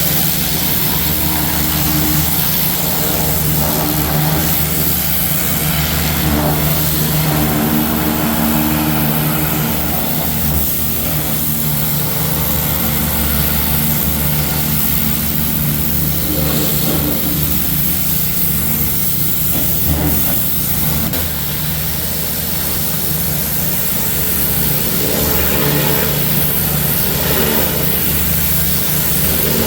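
Pressure washer running steadily: a constant motor drone under the hiss of the high-pressure spray.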